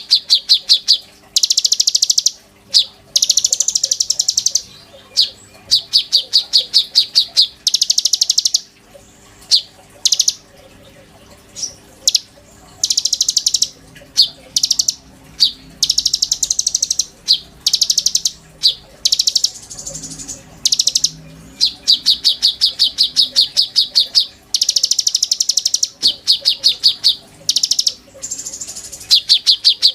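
A konin songbird singing vigorously: high-pitched, rapid chattering trills in bursts of about half a second to a second, repeated over and over with short pauses. A faint steady hum runs underneath.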